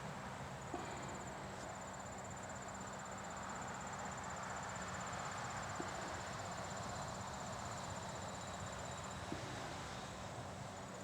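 Insects trilling steadily in a high, rapidly pulsing note, over a faint even outdoor hiss.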